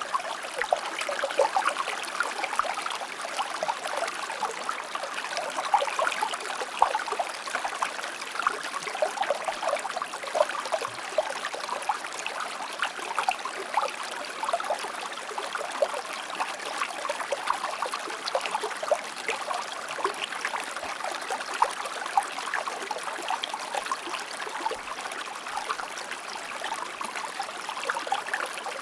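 Shallow stream flowing and babbling over stones: a steady rush of water with many small bubbling splashes.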